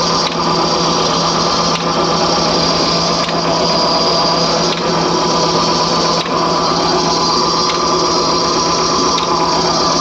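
Escort Jawan MPT 25 hp tractor engine running steadily under load, driving a water pump, with a faint tick about every second and a half.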